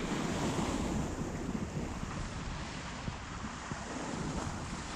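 Water rushing past the hull of a sailboat under way, mixed with wind buffeting the microphone as a steady low rumble.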